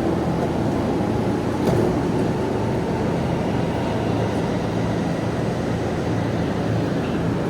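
Tokaido Line commuter train at a station platform: a steady rumble with a low electrical hum, and a single click about two seconds in.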